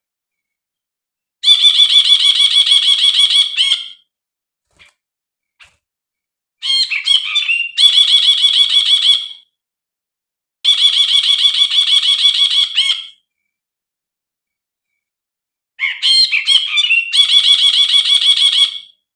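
Brinji (bulbul) song: four bouts of a fast, evenly pulsed trill, each about two and a half to three seconds long. The second and fourth open with a few quick varied notes before the trill.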